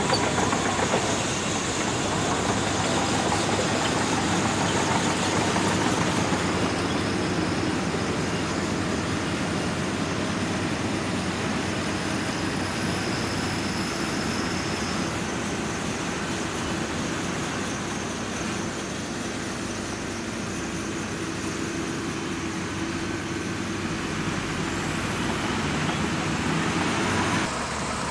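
Bulldozer's diesel engine running steadily, with a sudden drop in level just before the end.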